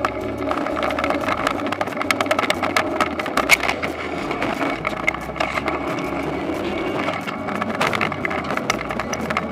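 Toyonoki potato harvesting machine running, its engine going steadily under a constant clatter and rattle of the digging and conveying mechanism.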